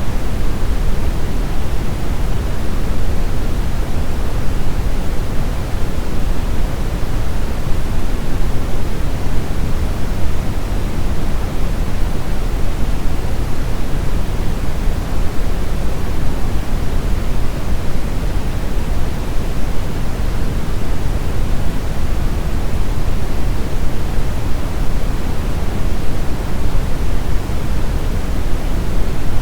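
Brown noise: steady, even, deep rumbling hiss with most of its energy in the low end, unchanging throughout.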